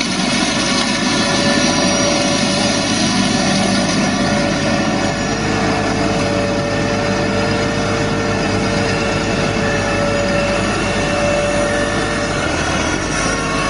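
Farm tractor with a shrub trimmer attachment running steadily, a continuous engine drone with a faint whine that shifts up slightly about five seconds in.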